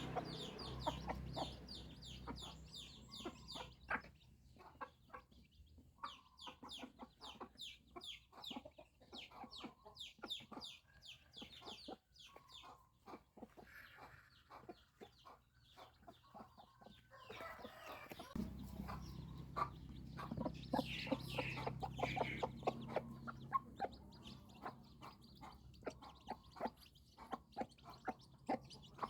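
Chickens calling: a steady stream of short, high-pitched peeps from young chicks, several a second, with clucking among them. A low rumble runs underneath, stronger near the start and again in the second half.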